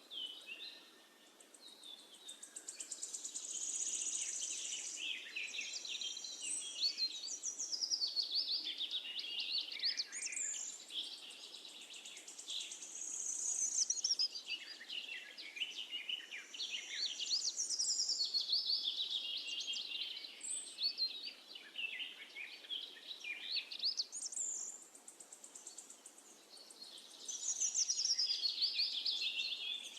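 Several birds singing at once in a continuous chorus of overlapping chirps and quick trills, over a faint steady hiss.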